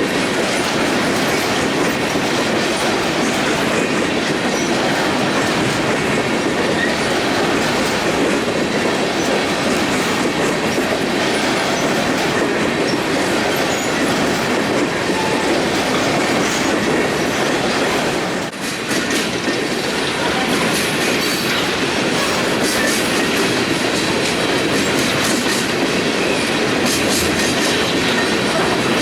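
Union Pacific empty coal train rolling steadily past, its wheels running over the rails, with a brief dip in level about two-thirds of the way through.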